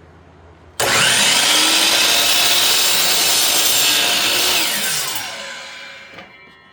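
Miter saw switched on about a second in, its motor running at full speed as it trims a thin slice off the end of a board, then switched off and winding down, the pitch falling as it fades out near the end.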